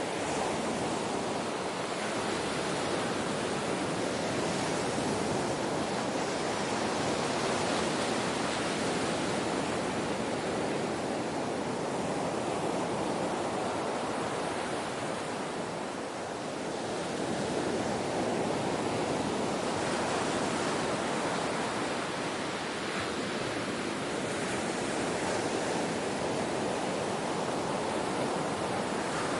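Ocean waves washing in a continuous rush of surf, swelling and easing slowly, with a brief lull about halfway through before it builds again.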